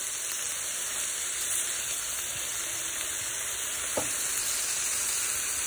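Broccoli and kelp noodles sizzling steadily in hot olive oil in a pan, stirred with a utensil, with a single light tap about four seconds in.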